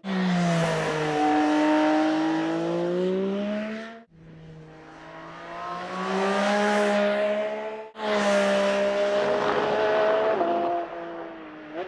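Porsche 718 Cayman GT4 RS's 4.0-litre flat-six engine running hard at high revs, its pitch rising and falling. Three separate passages cut together, with abrupt breaks about 4 and 8 seconds in.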